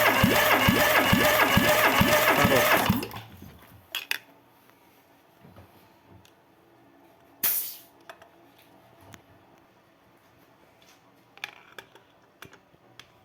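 Renault K4M 760 four-cylinder petrol engine being cranked over without starting, pulsing about three times a second, which fits a compression test; it stops about three seconds in. A short hiss follows about seven seconds in, with a few light clicks.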